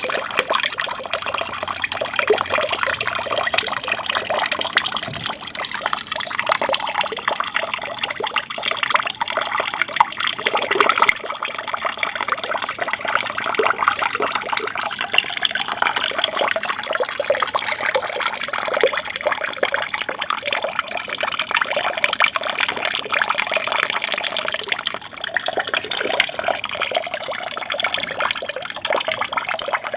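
Water splashing and trickling steadily from a small aquarium waterfall into the tank.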